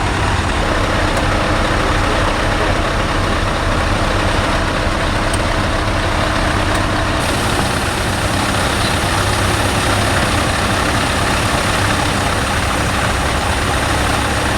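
Heavy diesel truck engine idling, a steady even running sound with no change in speed.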